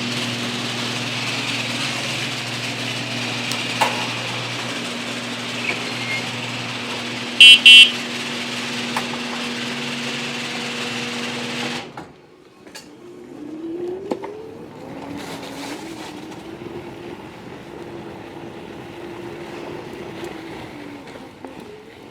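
A steady hum, broken about seven seconds in by a loud, short two-part electronic tone. After an abrupt change near the middle, an electric e-bike motor's whine rises in pitch as it pulls away, then holds at a steady pitch.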